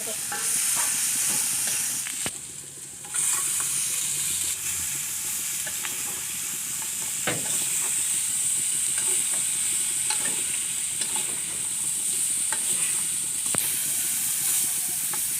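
Pigeon rica-rica frying in hot oil in a pan: a steady sizzle with a few sharp clicks of a utensil against the pan. The sizzle drops away briefly about two seconds in.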